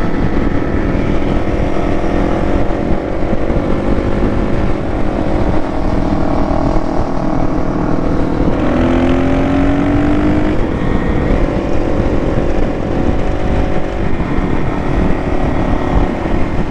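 Vehicle engine running under way with heavy wind rush on the microphone. About halfway through, a higher engine note climbs in pitch for a couple of seconds.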